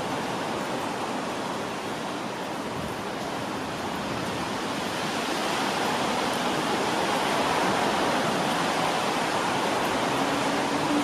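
Steady hiss of rain falling on the station and tracks. An electric commuter train approaching grows louder through the second half, and a steady tone comes in near the end.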